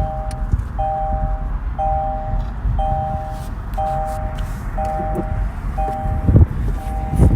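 Reversing alarm beeping steadily, a two-tone beep about once a second, over a low rumble.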